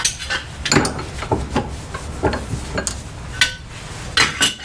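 Metal clinking and knocking as brass soft jaws are fitted into a bench vise, a string of separate light strikes.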